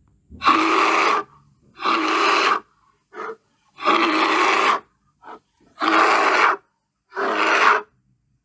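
Bear roaring: five rough roars of just under a second each, about every one and a half to two seconds, with two short grunts in between.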